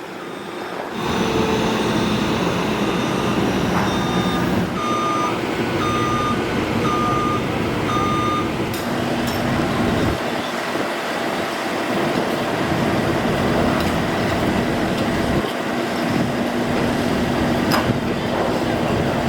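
Heavy diesel construction machine engine running steadily, with its backup alarm beeping about once a second for several seconds.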